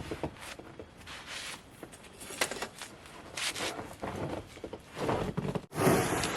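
Footsteps through deep snow, roughly one step a second.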